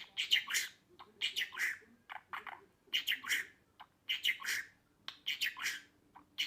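Budgerigar chirping and chattering in quick clusters of short, sharp chirps, about one cluster a second.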